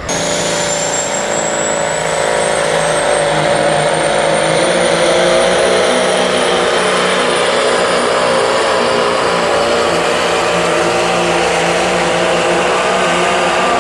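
A tractor-pull tractor's engine running loud and steady at full throttle during a pull, with a high whine that climbs over the first few seconds and then holds.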